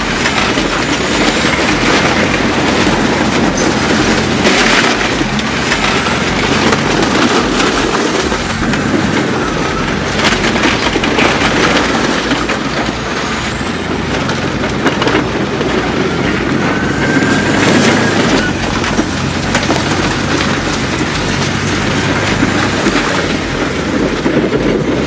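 Heavy crawler bulldozer working: its engine runs steadily under load while the steel tracks clatter and knock, with occasional short squeals.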